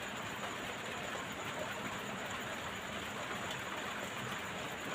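Steady, even background noise, like a hiss or distant rain, with no distinct events.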